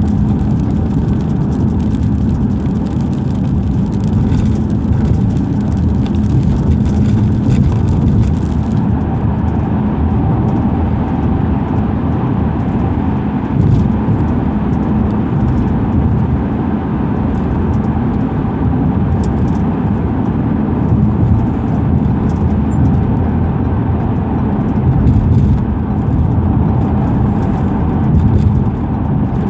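Car driving along a highway: a steady, continuous rumble of road and engine noise.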